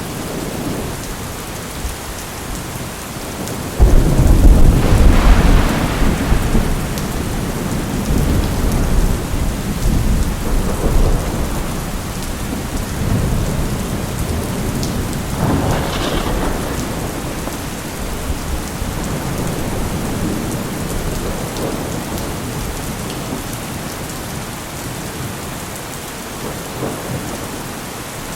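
Steady rain with thunder: a loud thunderclap about four seconds in that rumbles on for several seconds, and a second, sharper crack of thunder about halfway through.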